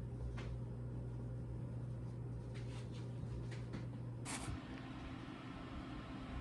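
A steady low electrical hum with a few faint clicks. About four seconds in there is a brief hiss, and the hum shifts to a higher, quieter tone.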